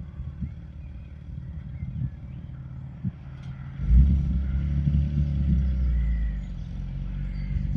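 A car driving slowly past close by: its engine comes in loud about four seconds in, holds for a couple of seconds, then eases away, over a low steady rumble.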